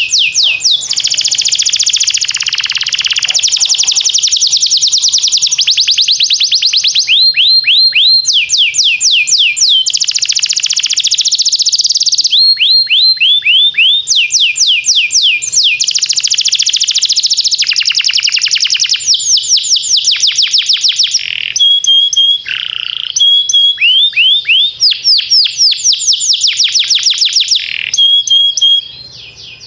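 Domestic canary singing a long song of rapid trills: phrase after phrase of quick falling notes repeated many times a second, with short breaks between phrases. The song stops near the end.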